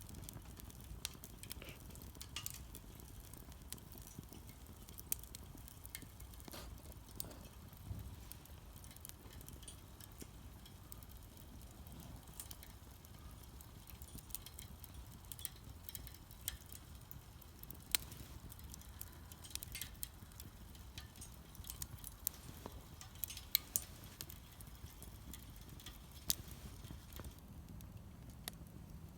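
Wood fire crackling in a Solo Stove Campfire fire pit, with irregular sharp pops scattered throughout.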